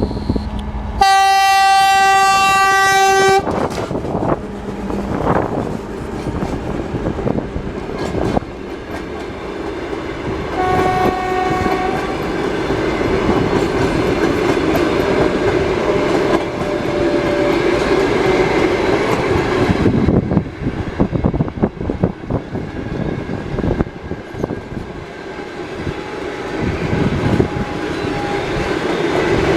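TEP70BS diesel passenger locomotive sounding its horn: one long loud blast about a second in, then a shorter one around ten seconds in. After that the train passes with a steady rumble and rapid clicking of wheels over the rail joints.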